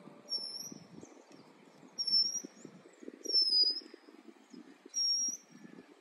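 A bird calling four times, about every second and a half: each call is a short, high whistled note that dips slightly in pitch.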